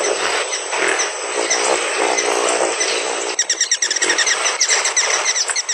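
A steady buzzing hum, then from a little past halfway a rapid run of short, high, repeated chirps. This fits hummingbirds: the hum of wings, then their calls.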